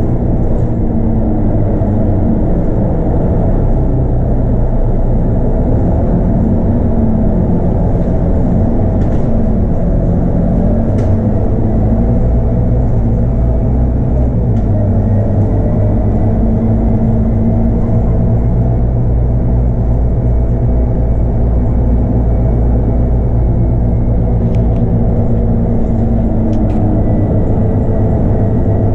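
Scania K230UB bus's 8.9-litre five-cylinder DC9 diesel engine running under way, with its ZF Ecomat automatic gearbox, heard from on board. The engine note shifts in pitch a few times, with a faint high whine over it and a few light rattles.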